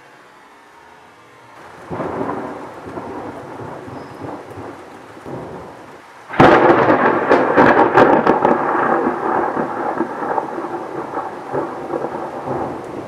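Thunder in a thunderstorm, with rain. A rumble rises about two seconds in. About halfway through comes a sudden loud crack, then long rolling, crackling thunder that slowly fades.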